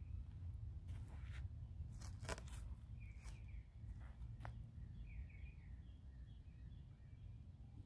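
Outdoor ambience of small birds chirping now and then over a steady low rumble, with a few soft clicks and scuffs, the loudest a quick cluster about two seconds in.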